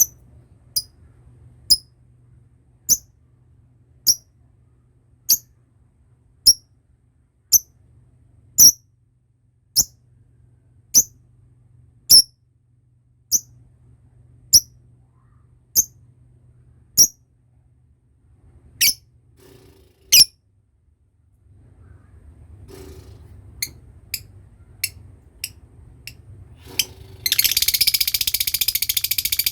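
Lovebird giving single sharp high chirps about once a second, then quicker chirps, and near the end breaking into a loud, rapid, continuous chattering trill. This trill is the long 'ngekek' call that lovebird keepers prize.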